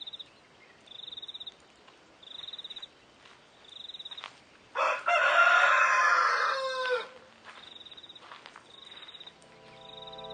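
A rooster crowing once, a long crow of about two seconds starting about five seconds in and falling in pitch at its end. A short high pulsed chirp repeats about every second and a half throughout, and music comes in near the end.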